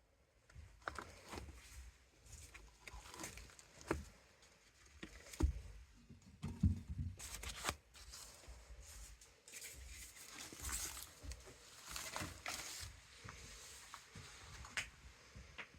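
Irregular rustling, scraping and clicking, with two heavier knocks about five and a half and six and a half seconds in.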